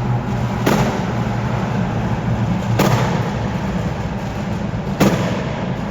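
A modified car's exhaust letting off three loud bangs, about two seconds apart, over the steady drone of its engine: pops and bangs from an exhaust tuned for them.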